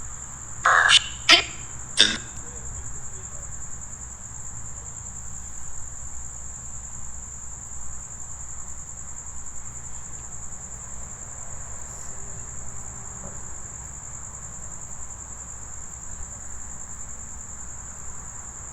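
Crickets chirping in a continuous high, even trill. Three short, sharp noises come about one to two seconds in, over a steady low rumble.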